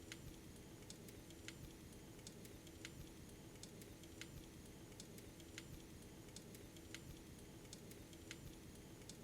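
Faint, sharp clicks coming a little more than once a second, over a low, steady hum.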